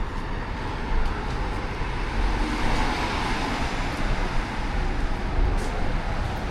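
Road traffic on a town street: a car passing, its tyre and engine noise swelling and fading over a steady low rumble.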